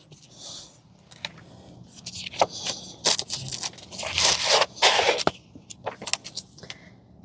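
Craft supplies being handled for finger painting: irregular rustling and scraping with several sharp clicks, busiest in the middle.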